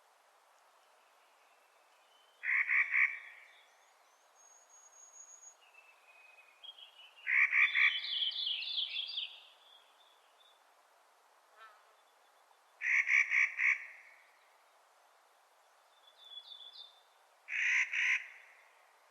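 Clark's nutcracker giving four harsh, grating calls, each a rapid rattle lasting under a second, about five seconds apart. Fainter chirps and a thin high whistle come between them.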